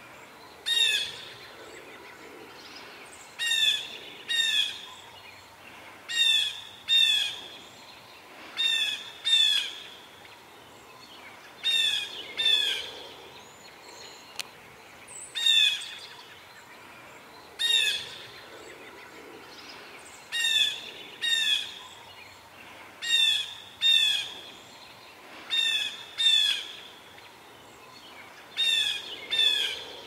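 A bird's harsh call, given over and over, often in quick pairs about half a second apart with gaps of one to three seconds. Each call is short and drops in pitch.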